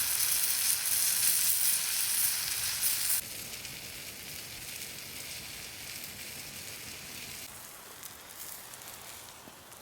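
Food frying and sizzling, loud for about three seconds, then suddenly quieter and fading.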